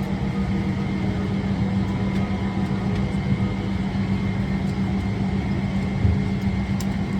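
Steady cabin hum inside a parked Boeing 777-300ER, the air-conditioning running with a constant low drone and a faint high whine.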